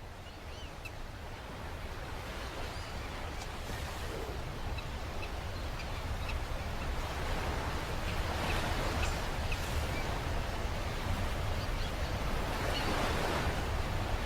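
Outdoor ambience: a steady rushing noise with a low rumble, growing gradually louder, with a few faint high bird chirps.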